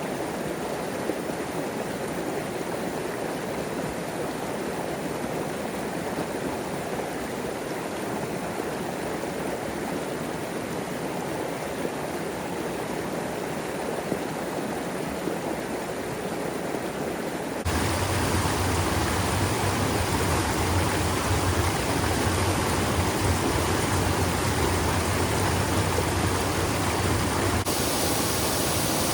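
Steady rush of flowing water from a creek and its falls. About two-thirds of the way in it switches abruptly to a louder, deeper rush, and it changes again abruptly near the end.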